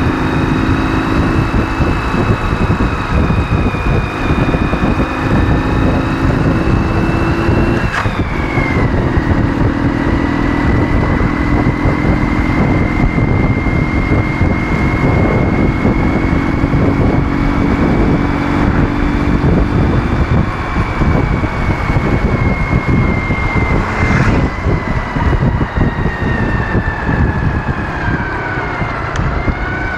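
Ural motorcycle with a 650 cc flat-twin engine running under way. A whining tone dips sharply about 8 seconds in, climbs slowly after, and falls away near the end.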